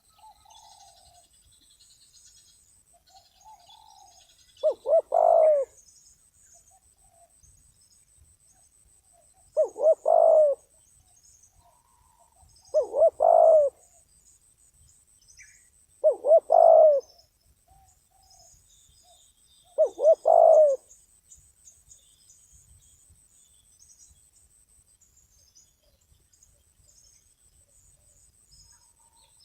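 Spotted dove cooing: five separate phrases, each about a second long and made of a few quick notes, spaced three to five seconds apart.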